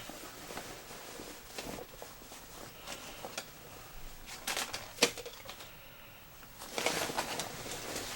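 Rustling and handling of cotton cargo pants, with scattered small clicks and a sharp click about five seconds in. The rustling grows denser near the end.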